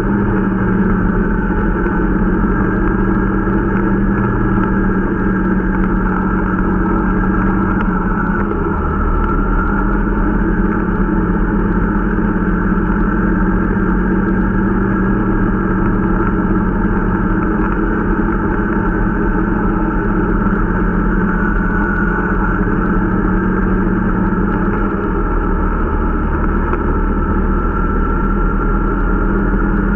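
Irbis Dingo T125 snowmobile's small 125 cc four-stroke engine running steadily under way during its break-in ride, the pitch shifting slightly about eight seconds in and again near twenty-five seconds.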